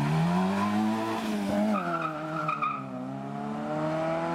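Car engine accelerating hard, its revs climbing, dipping about a second in, then climbing again, with a short tyre squeal about two seconds in.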